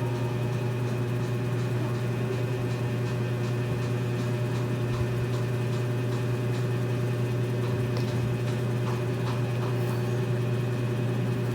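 A steady low electrical hum, with faint light taps scattered through it.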